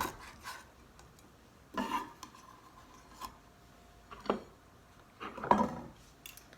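Knife and cutting-board knocks with small clatters, about half a dozen irregularly spaced hits separated by quiet gaps, as asparagus is cut and handled.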